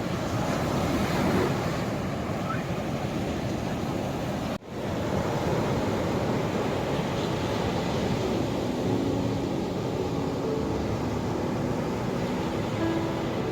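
Ocean waves washing onto a shore as a steady rushing surf. It cuts out for an instant about four and a half seconds in, then resumes.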